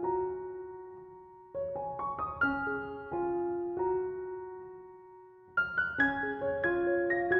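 Soft background piano music: short runs of notes struck one after another, each run left to ring and fade, with new phrases about a second and a half in and again near the end.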